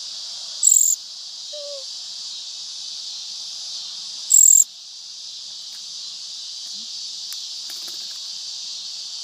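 Steady, high chorus of crickets and other insects, with two loud, very short, very high-pitched chirps close by, about a second in and again about four seconds in.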